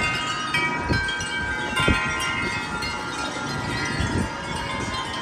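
Wind chimes ringing and jangling in strong gusting wind, many metal tones overlapping and sustaining with no break. Wind buffets the microphone underneath as a low, gusty rumble.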